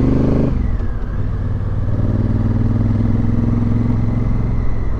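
Motorcycle engine running under the rider. The revs drop about half a second in, then it pulls steadily at lower revs.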